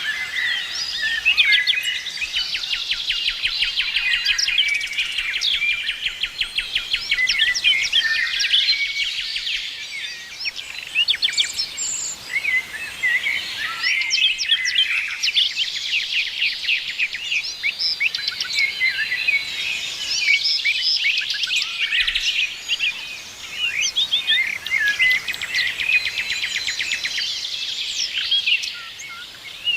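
A chorus of many birds chirping and trilling at once, short calls overlapping one another, with fast rattling trills among them.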